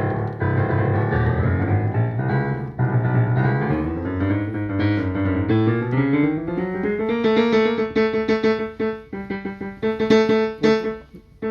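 Yamaha CLP digital piano played through its own speakers: a few seconds of chords, then from about seven seconds in the same notes struck over and over. The repeated strikes test keys that sound out louder than the rest, a fault the repairer puts down to worn contact rubbers and problems in the key matrix.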